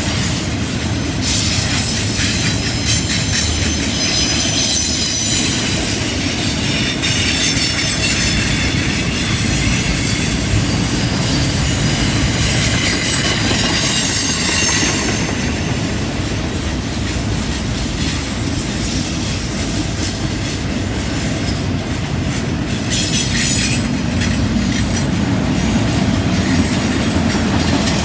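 Double-stack container cars of a freight train rolling past on a curve: a steady rumble of wheels on rail with high-pitched wheel squeal as the flanges grind through the curve.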